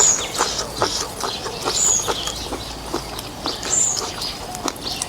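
Close mouth sounds of eating noodles: wet smacking and clicking while chewing. A short high chirp repeats about every one and a half to two seconds.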